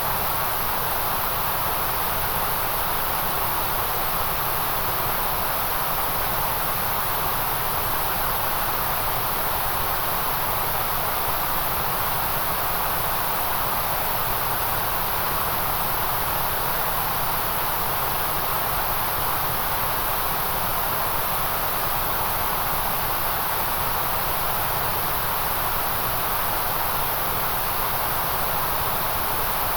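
Steady, unchanging white noise hiss, strongest in a band around the middle and in the very high treble.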